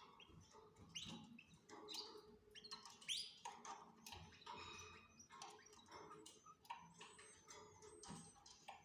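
Canaries chirping faintly in a breeding cage: many short high calls and quick sweeps following one another.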